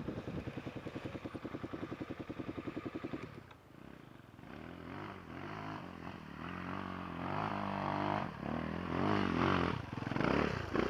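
Enduro dirt bike engine idling with an even, rapid beat. About three seconds in it drops away briefly, then returns with the revs rising and falling as the bike rides.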